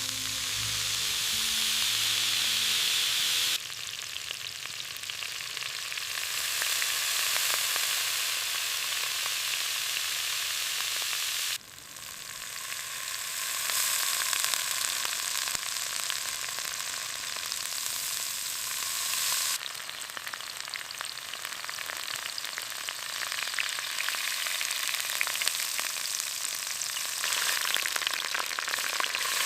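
Food frying over a fire, a steady sizzle that jumps abruptly in loudness and tone a few times, at edits between shots.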